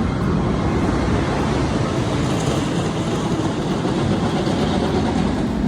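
Amusement park ride train running along its track, a steady rumble.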